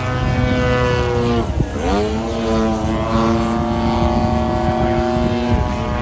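Radio-controlled monster truck motors running with a steady high whine, which dips about a second and a half in and climbs back to a held pitch before falling away near the end.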